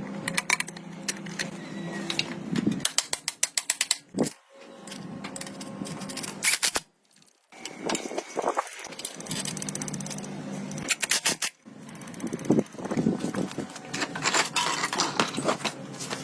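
Hand-tool work on metal: bursts of rapid clicks and knocks over a steady hum, broken off by several sudden cuts.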